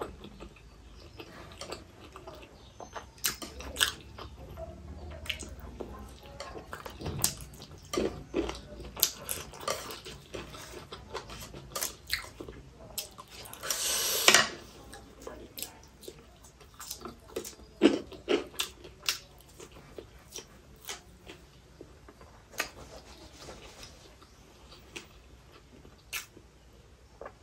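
Close-miked chewing and biting of stir-fried baby octopus, moist and crackly, with sharp clicks of chopsticks against a foil tray. One longer noisy burst comes about halfway through.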